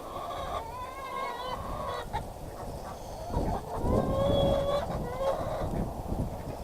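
Domestic poultry calling: a few drawn-out calls, the loudest held for about a second around four seconds in, over low rustling.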